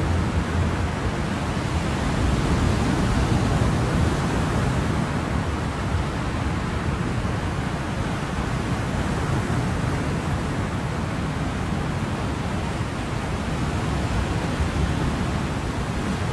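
Ocean waves washing onto a shore, a steady surf with a slow swell in level and no distinct single breakers.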